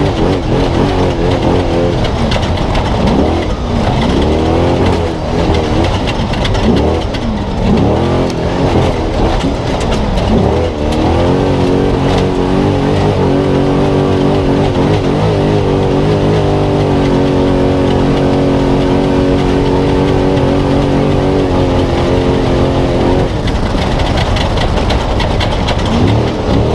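Spec Trophy Truck engine heard from onboard at race pace, revving up and down repeatedly for the first ten seconds or so, then held at steady revs for about twelve seconds before changing again near the end.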